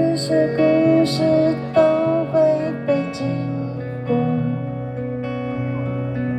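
Live band music with guitar: a singer holds a few wavering sung notes for about the first three seconds, then the guitar and band carry on alone with sustained chords.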